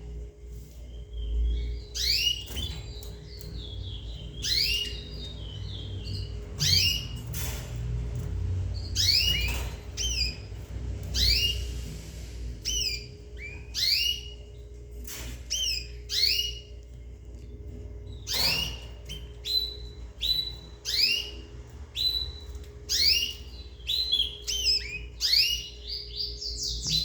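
Domestic canaries calling: repeated short whistled notes that drop sharply in pitch, about one a second, some overlapping, over a faint steady hum.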